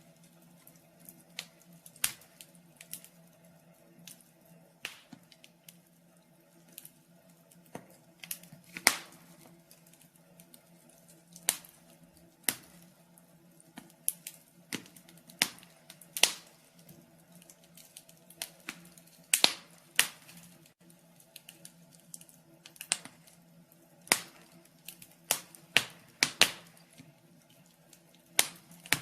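Wood fire in a fireplace crackling, with irregular sharp pops from the burning logs, some much louder than others, over a faint steady hum.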